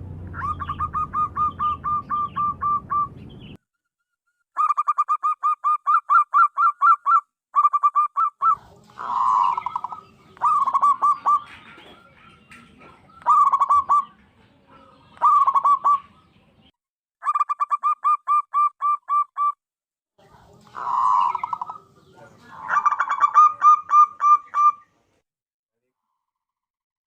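Zebra dove (perkutut) song: phrases of rapid staccato cooing notes, about five a second, each phrase lasting two to three seconds, with shorter single coos between the phrases.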